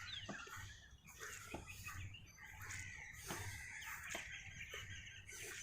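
Birds chirping and calling, many short twittering calls, with a few faint clicks.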